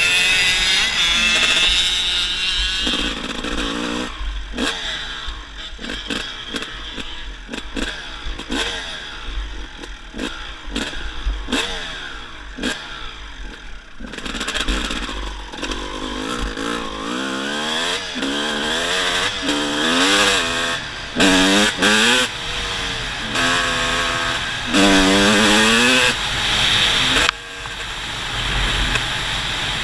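Dirt bike engine revving up and down repeatedly, its pitch rising and falling, with many short sharp knocks throughout.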